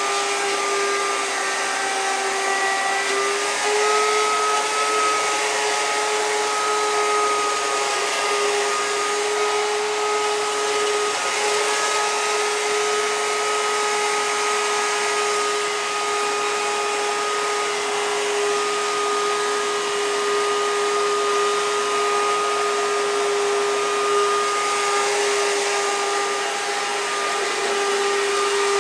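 Dirt Devil Platinum Force upright vacuum cleaner running steadily: a constant motor whine over the rush of air, its pitch stepping up slightly about four seconds in.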